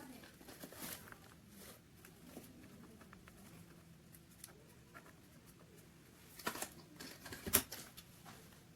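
Faint handling noise, small objects shifted and set down on a work surface, with light clicks and rustling. Two sharper knocks come about two seconds apart near the end.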